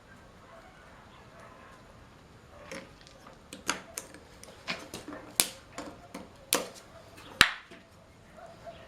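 A string of irregular sharp clicks and knocks, about a dozen, beginning about three seconds in, with the loudest one near the end.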